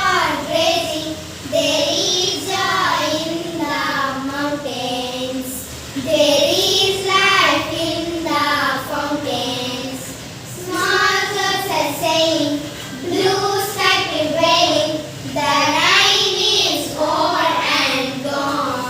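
A group of young children chanting a poem together in a sing-song chorus, in phrases of a second or two with short breaths between them.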